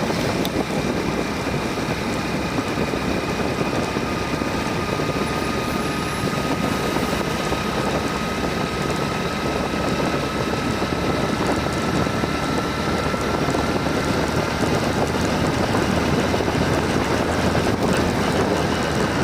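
A vehicle on the move, a steady engine-and-road noise with a faint, slowly drifting whine.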